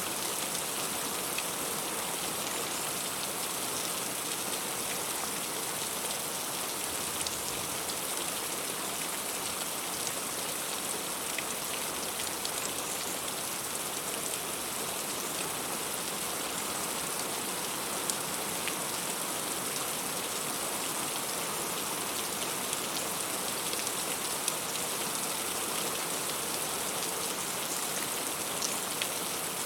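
Heavy rain falling steadily on fruit and leaves, a dense even hiss with scattered individual drop ticks.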